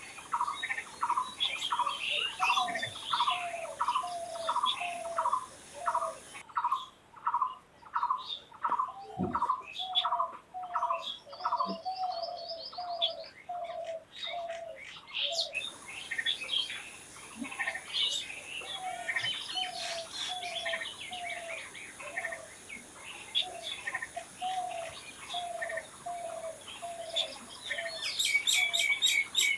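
Birds calling and chirping: short low notes repeated in steady series about one and a half times a second, a second run of lower falling notes, and scattered higher chirps over them. A fast high run of notes comes near the end.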